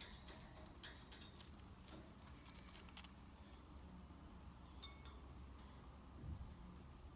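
Indian ringneck parrot playing, its beak and claws making faint quick clicks and taps, bunched in the first three seconds, with one more click later and a soft low bump near the end.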